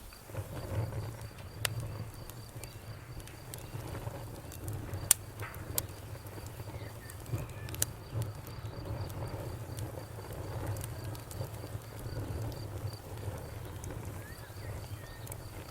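Campfire burning: a steady low rumble with scattered sharp crackles and pops, the loudest pop about five seconds in.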